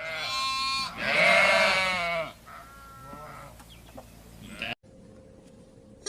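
An animal calling: two long, bleat-like calls, the second louder and falling in pitch at its end, followed by a fainter, shorter call.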